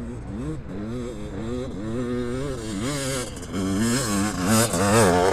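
Dirt bike revving up and down over and over as it rides, growing louder toward the end as it comes closer.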